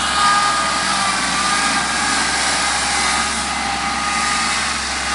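Kubota L3301 tractor's three-cylinder diesel engine running steadily, with a thin steady whine above the engine noise.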